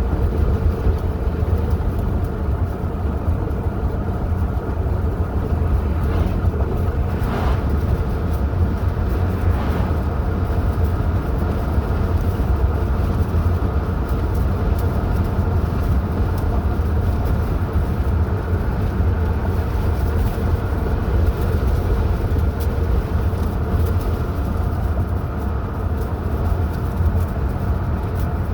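Steady low rumble of a car driving along a road: engine and tyre noise that holds even throughout.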